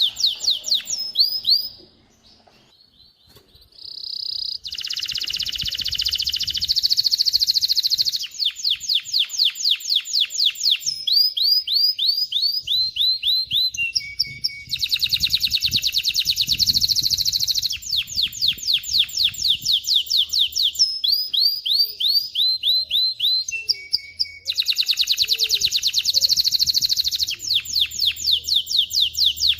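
Male canary singing: long runs of fast, high-pitched repeated notes, alternating with dense rolling trills. There is a short pause about two seconds in.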